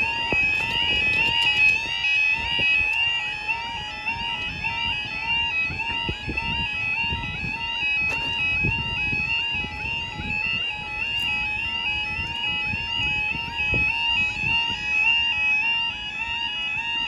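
Level crossing warning alarm sounding continuously, a rapidly repeating warbling two-tone alarm, over a low uneven rumble.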